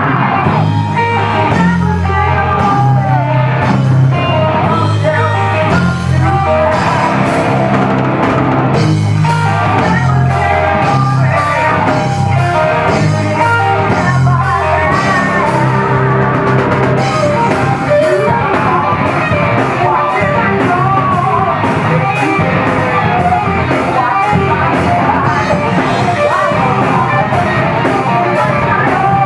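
Heavy metal band playing live: electric guitars, bass, drum kit and singing. A heavy low riff carries the first half, then thins out about halfway.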